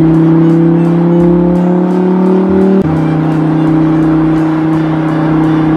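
Car engine sound droning steadily. Its pitch climbs slowly for a few seconds, then drops back suddenly about three seconds in and holds steady. Background music with a steady ticking beat plays along.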